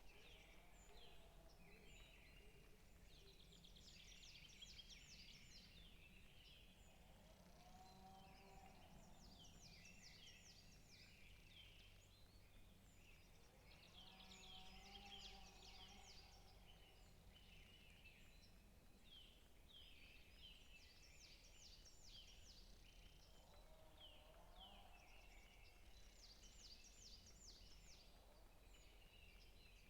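Forest songbirds singing: rapid trills of high notes repeated every few seconds, with a few lower calls, over a faint steady low hum.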